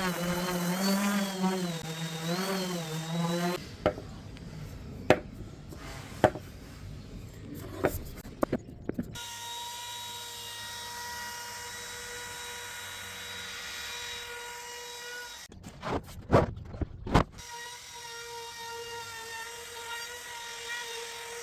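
Workshop tool sounds while working a maple desktop: a wavering hum for the first few seconds, then a run of sharp knocks, then a steady power-tool whine that is broken by a few more knocks about two-thirds of the way through.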